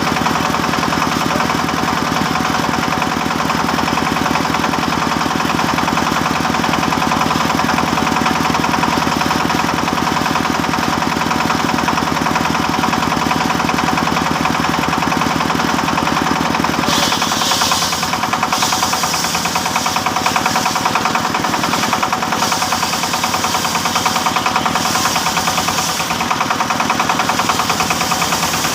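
Engine-driven wood saw running steadily while sawing teak. From about two-thirds of the way in, a higher hissing sound comes and goes in several stretches over the steady engine note as the blade cuts.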